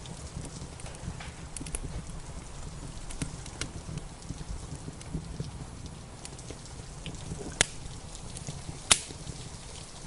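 Wood fire crackling in a fireplace, with scattered small snaps over a steady low rumble and two loud pops about a second apart near the end.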